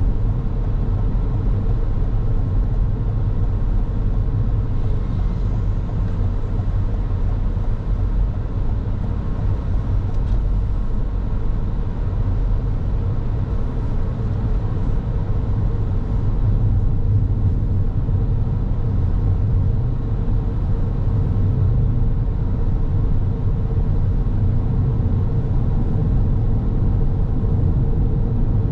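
Car driving along a road: a steady low rumble of road and engine noise with no sudden events.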